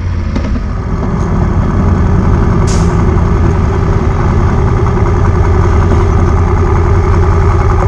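Moto Guzzi motorcycle's V-twin engine running at a steady, low pitch, heard up close from the bike. A short hiss comes in a little under three seconds in.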